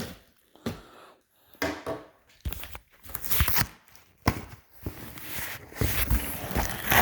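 Cardboard shipping box being handled and opened: an irregular series of knocks, scrapes and tearing rustles of cardboard and packing.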